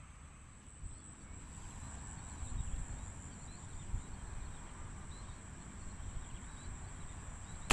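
Rice-paddy ambience: a steady high-pitched insect drone with faint short chirps over a low rumble, and a sharp click at the very end.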